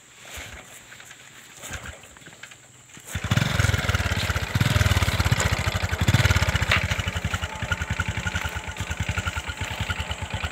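Small single-cylinder motorcycle engine being kick-started: a few quiet knocks, then it catches about three seconds in, revs briefly and settles into an even idle.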